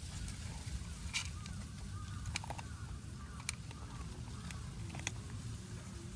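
Stray kittens eating dry cat food: scattered sharp crunching clicks, roughly one a second, over a steady low outdoor rumble.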